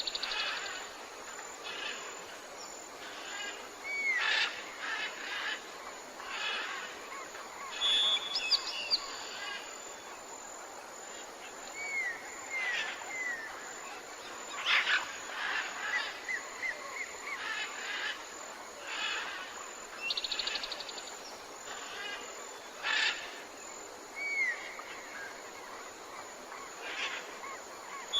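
Several birds calling over a steady forest background. Short upward-hooked whistles come again and again, and a fast high trill returns a few times, with loud sharp calls about halfway through and again near the end.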